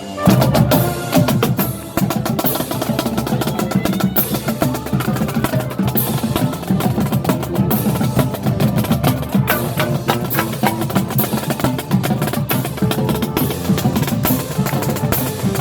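Marching band playing a percussion-led passage: rapid drum strokes and wood-block-like hits over held pitched parts.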